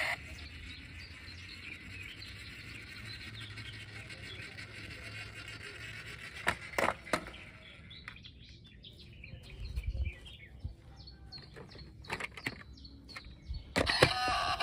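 Faint outdoor ambience with small birds chirping, broken by a few sharp clicks and knocks.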